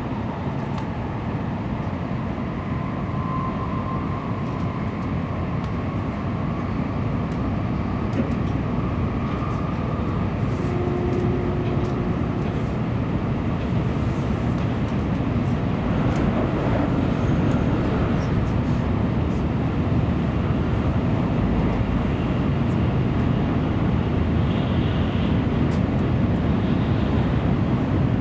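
Cabin noise inside a Tokaido Shinkansen car under way: a steady rumble of wheels, running gear and air that grows gradually louder as the train gathers speed.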